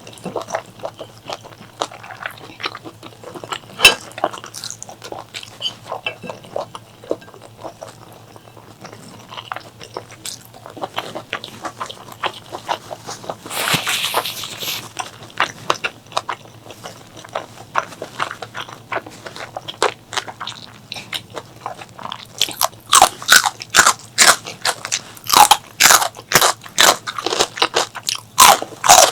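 A person chewing and biting food close to the microphone: irregular wet clicks and crunches, with a short rushing noise about halfway, then fast, loud crunching chews in the last several seconds.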